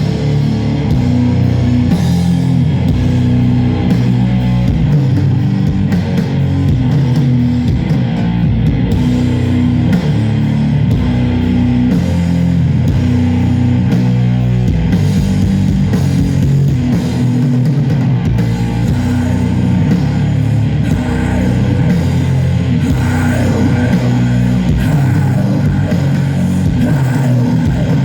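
Doom metal band playing live: heavily distorted, down-tuned guitars and bass riffing with a drum kit, loud and dense.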